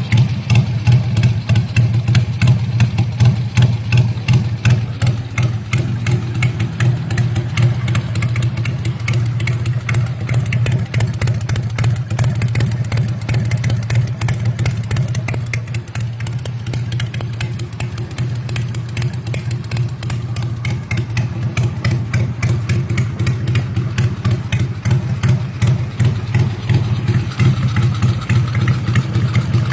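Honda Supra motorcycle's two-cylinder engine running at idle through an open exhaust with the silencer removed, giving a loud, deep, choppy pulsing. It eases off a little in the middle and picks up again near the end.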